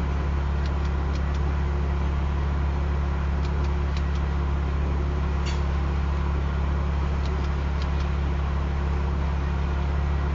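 Steady low rumble and hum heard from inside a car's cabin as a long freight train of grain hopper cars rolls slowly past, with a few scattered faint ticks.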